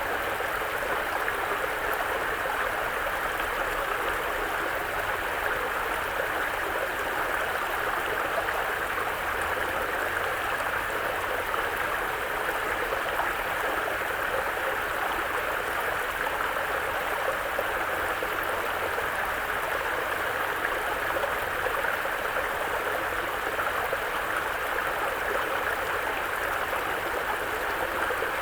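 Mountain brook flowing steadily over rocks, an even, unbroken water sound.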